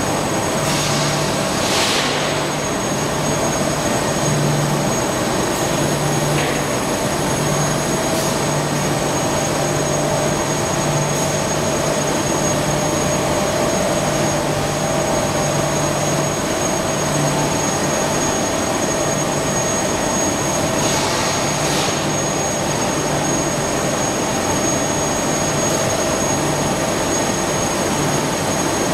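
Industrial roll-fabric washing machinery running steadily, a continuous mechanical noise with a high steady whine and a mid hum, and a low hum that cuts in and out. A short hissing swell rises twice, near the start and again about two-thirds of the way through.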